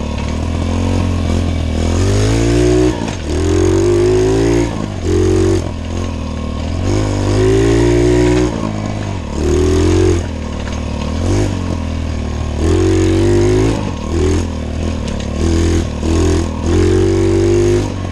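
Small pit bike engine revving in short bursts as the throttle is opened and closed over and over, its pitch climbing and dropping back about ten times. The bike won't rev out fully at the top end, which the rider puts down to needing a top-end adjustment.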